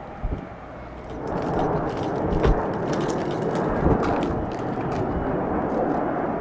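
Jet airliner engine noise swelling about a second in and holding steady, with a crackling edge and a few low thumps.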